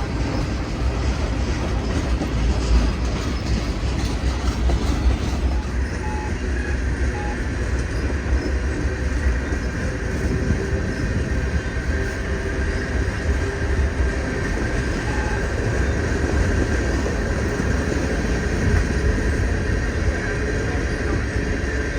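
Freight train rolling past on the rails at speed, a steady rumble of wheels and cars with some clickety-clack, as the short train picks up speed.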